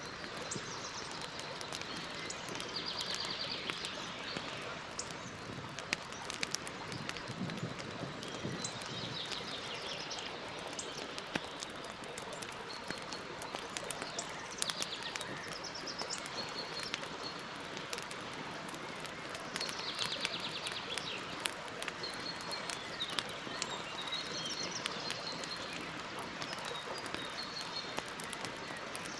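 Campfire crackling, with many small pops and a steady hiss. A small bird sings a short, fast, high trill every five or six seconds.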